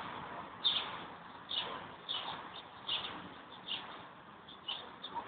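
A small bird chirping repeatedly: short, sharp, slightly falling chirps about once a second.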